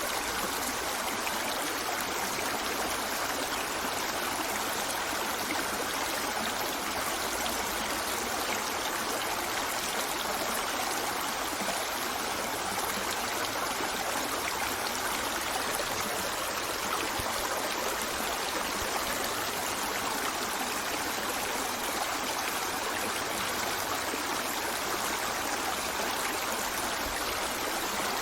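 A stream running steadily: an even, unbroken rush of flowing water that does not change.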